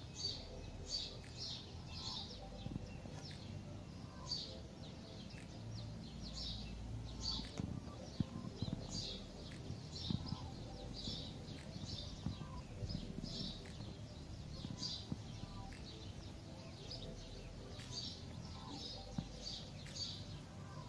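Birds chirping over and over, short high calls about once a second, over a low rumble of wind on the microphone that swells and fades.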